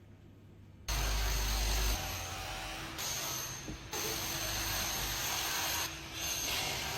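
Loud construction machinery noise that starts suddenly about a second in and shifts in character every second or so, with a steady mechanical hum under it.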